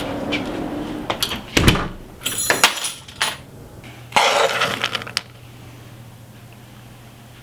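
Several sharp knocks and glassy clinks, then about a second of rustling about four seconds in, followed by only a low steady hum.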